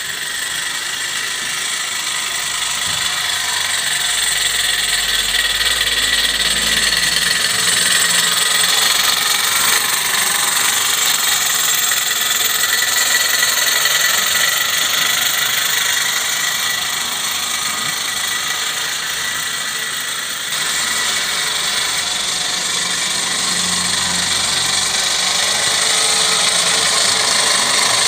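Gauge 1 live-steam model tram with a Mamod oscillating-cylinder engine running under steam, giving a steady hiss.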